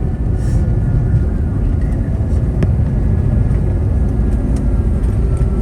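Cabin noise of an Airbus A321neo heard from inside the cabin: a steady low rumble with faint whining tones over it, and one sharp click about two and a half seconds in.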